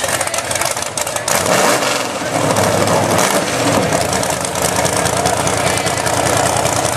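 Off-road 4x4 truck engine running hard under revs, a loud, rough steady sound that grows louder about a second and a half in.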